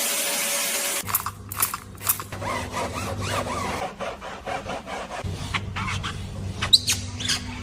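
About a second of steady hiss, then rubbing and scraping strokes on a car, mixed with sharp clicks, over a low steady machine hum.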